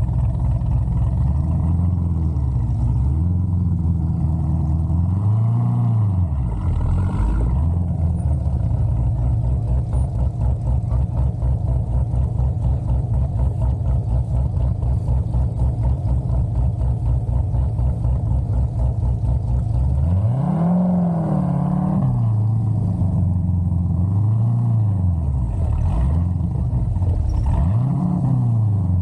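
Big-cam LS7 V8 of a C6 Corvette Z06, revved in short blips several times and settling in between into an uneven, loping idle with a rhythmic pulse. The blips come in the first several seconds and again in the last ten.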